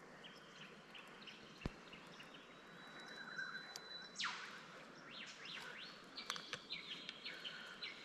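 Birds calling in the bush: a thin held whistle, then a sharp whip-like downward sweep about halfway through, followed by a run of quick high chirps.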